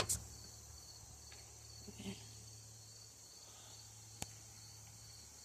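Crickets chirping steadily in a fast, even pulse, with a few sharp clicks: one near the start, a softer one about two seconds in, and one about four seconds in.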